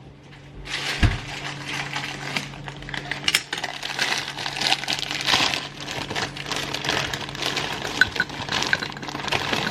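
Light clinking, clicking and rustling of small objects being handled, with a faint steady hum underneath.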